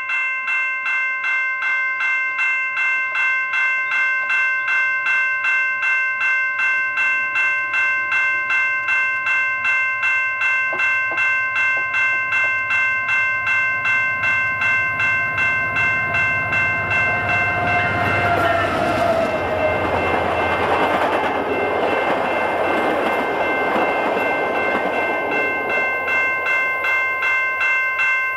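A CN diesel locomotive and its passenger train pass by. The horn sounds briefly with a falling pitch about eighteen seconds in, followed by the rumble of the train going by for several seconds. Under it, a steady pattern of chiming tones pulses about twice a second throughout.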